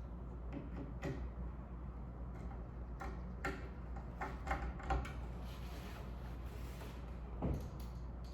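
Scattered light clicks and knocks of ceiling-fan parts and hardware being handled during assembly, over a low steady hum.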